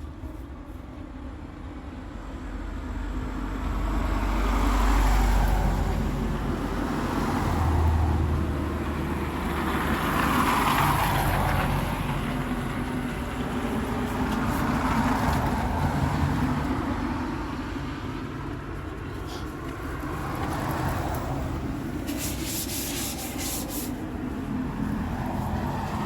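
Road traffic: several vehicles pass one after another, each a slow swell of tyre and engine noise over a low rumble. A brief crackle comes about three quarters of the way through.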